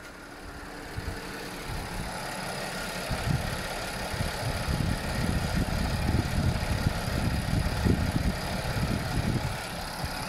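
Audi A6 3.0 TFSI (CAJA) supercharged V6 idling, heard close up in the open engine bay, getting louder over the first few seconds as the microphone nears the engine.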